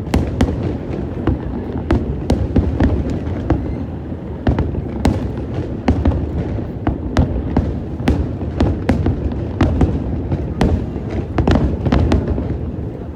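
Aerial fireworks bursting in rapid succession: many sharp bangs and crackles, several a second, over a continuous rumble of booms.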